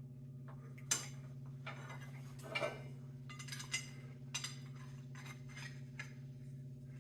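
Small steel pieces being handled and set down on a metal workbench, giving scattered light clinks and taps at irregular intervals over a steady low hum.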